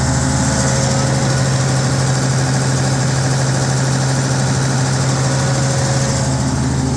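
Fiat-Allis HD21B bulldozer's diesel engine running steadily with an even, low hum.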